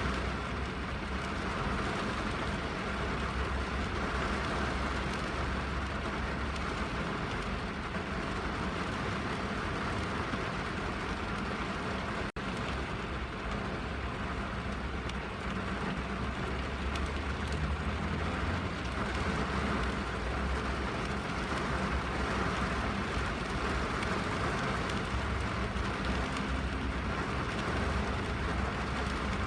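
Steady rain on a car's roof and windows, heard from inside the cabin, with a low rumble underneath. The sound cuts out for an instant about twelve seconds in.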